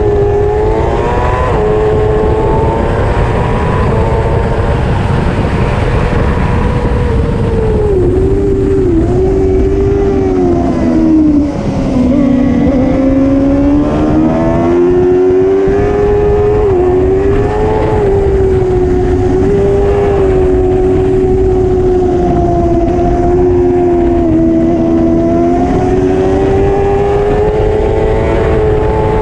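Racing motorcycle engine held at high revs, its pitch climbing and falling with throttle and gear changes. Around twelve seconds in it drops sharply, as for braking into a corner, then builds again, over a steady low rushing noise.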